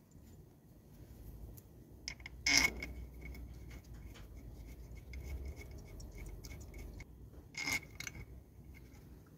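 Light clicks, ticks and scrapes of hand work on small hard parts, with two louder sharp knocks, one about two and a half seconds in and one near the end.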